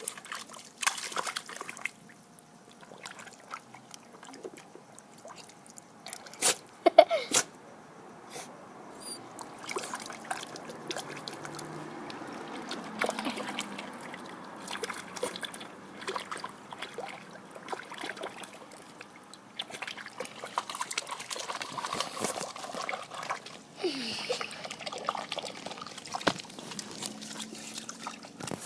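A dog splashing and pawing at water trickling up from a lawn sprinkler in the grass, with a few sharp splashes about seven seconds in.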